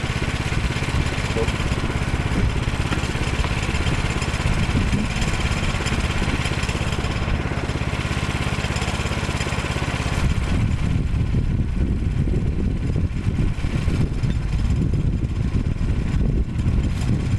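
The small gasoline engine of a Woodland Mills HM122 portable bandsaw mill running steadily. About ten seconds in the sound turns lower and more uneven, with the higher part falling away.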